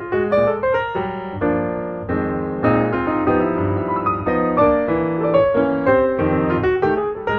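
Background piano music, quick notes played over sustained chords.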